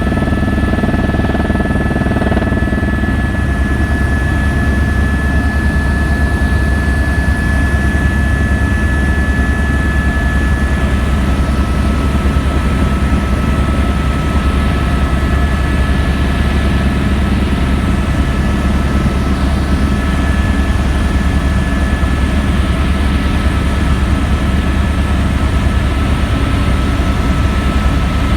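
Helicopter in flight, heard from aboard: a loud, steady low rotor beat with a continuous high whine above it.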